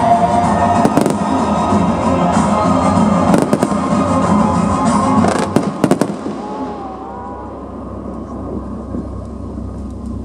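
Fireworks bursting, with several sharp bangs over a dense crackling wash and music played with the show. The bangs stop about six seconds in, leaving quieter music and faint background sound.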